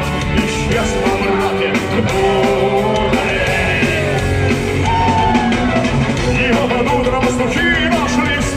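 Punk rock band playing the song live: loud, steady rock music with a melodic line weaving over it.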